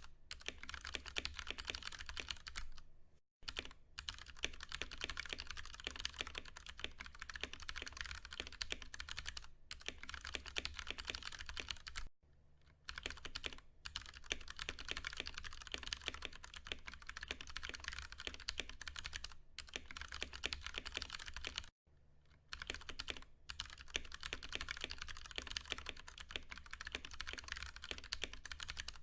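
Continuous fast typing on a Ducky One 2 Mini mechanical keyboard with Cherry MX Brown switches: a dense run of key clacks, broken by short pauses about three seconds in, about twelve seconds in and near twenty-two seconds. A faint steady low hum sits underneath.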